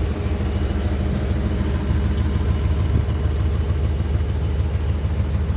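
A 1995 Ford F-350's 7.5-litre gas V8 idling, nice and even, fully warmed up after about 45 minutes of running.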